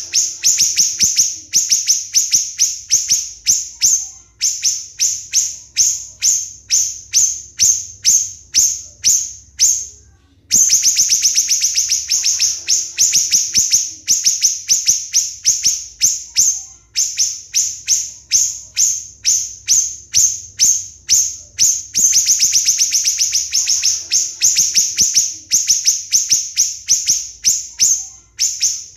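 Siri-siri bird singing its rapid 'tembakan' song: fast volleys of sharp, high-pitched notes, several a second, in runs of a few seconds, broken by short pauses and one longer pause about ten seconds in.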